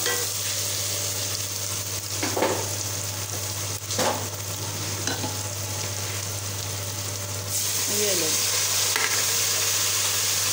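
Onions, tomatoes and green chillies with masala sizzling in hot oil in an aluminium pot while a wooden spatula stirs them, with a couple of knocks of the spatula against the pot. The sizzle grows louder about seven seconds in.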